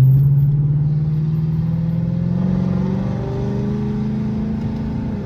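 Chrysler 300C's 5.7-litre Hemi V8 accelerating in sport mode, heard from inside the cabin: the engine note rises steadily, then drops suddenly at an upshift near the end.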